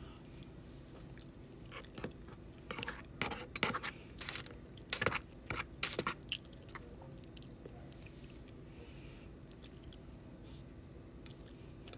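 A person chewing mouthfuls of poutine close to the microphone, with sharp clicks and short crunches clustered in the middle few seconds, among them a metal fork against the plastic tray.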